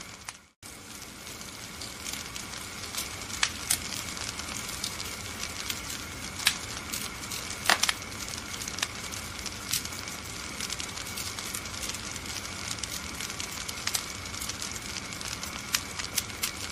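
Wood fire crackling in a fireplace: a steady hiss with sharp pops scattered throughout, the loudest about eight seconds in. The sound drops out briefly about half a second in.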